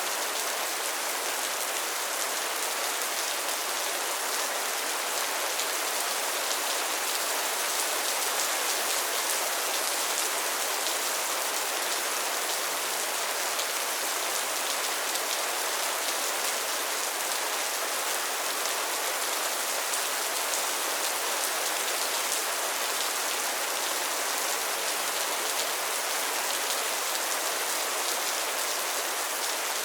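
Steady rain falling on a pond and its floating lily pads, an even hiss of many small drop patters.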